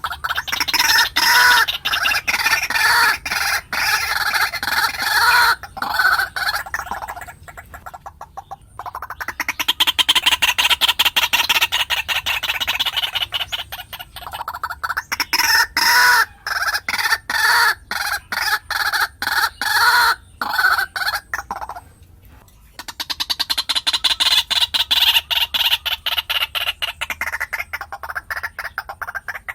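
White-breasted waterhen calling: fast runs of repeated harsh notes in four long bouts with brief pauses between them.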